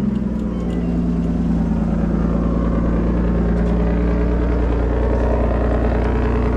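Car engine running at a steady, loud idle seconds after a cold start.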